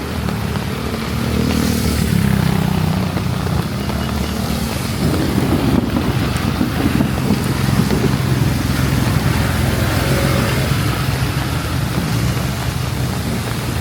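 Motor traffic on a wet road: vehicle engines running close by, with an engine's pitch rising and falling around the middle as one passes, over a steady hiss of wet tyres and rain.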